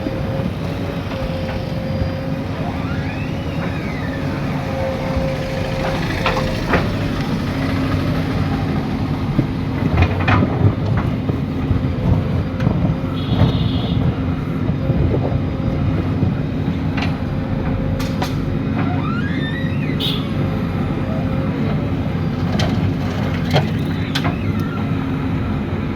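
Diesel engine of a JCB 3DX Super backhoe loader running steadily under working load, with occasional sharp knocks and clanks scattered through.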